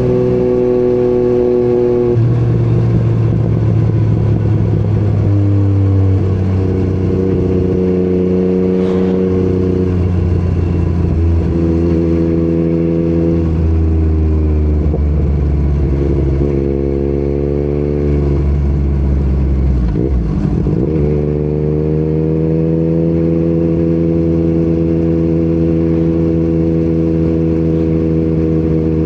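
Yamaha MT-09 inline-three with an Akrapovic exhaust running under way. The engine note rises, drops and breaks again and again as the rider works the throttle and gears, then settles into a steady cruise about two-thirds of the way through.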